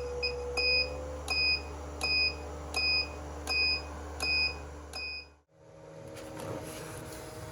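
Electronic buzzer beeping: two short blips, then seven even, high-pitched beeps about 0.7 s apart, over a steady low hum. The sound cuts off abruptly about five and a half seconds in, leaving a faint hiss and hum.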